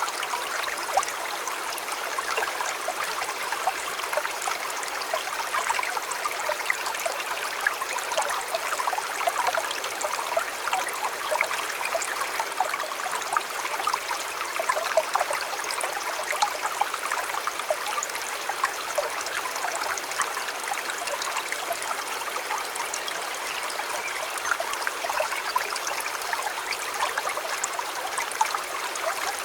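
A shallow stream running steadily, with a constant trickle and small splashes of water over rocks.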